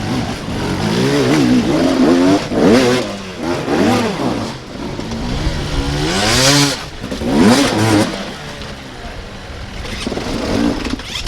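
Dirt bike engine revving hard in repeated throttle bursts, the pitch sweeping up and dropping back each time. A loud hissing burst about six and a half seconds in.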